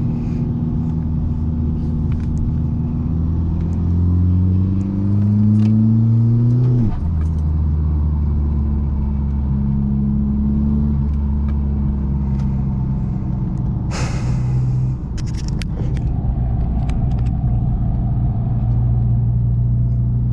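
Big-turbo 2.0 TDI common-rail diesel of a VW MK6 GTD under way. The engine note climbs for a few seconds and drops sharply at a gear change, then runs steadily. A short hiss of about a second comes around two-thirds through.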